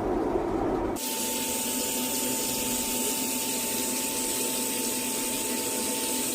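A low, steady rumble that cuts off about a second in. Then a steady hissing rush like running water or spray, with a faint steady high tone.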